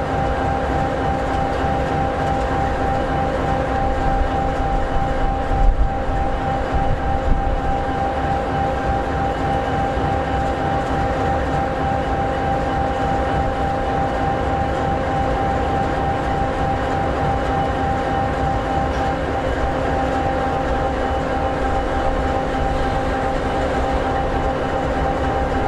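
EMD 16-710G3B sixteen-cylinder two-stroke diesel of an SD60E locomotive idling steadily: a low rumble with a constant whine over it.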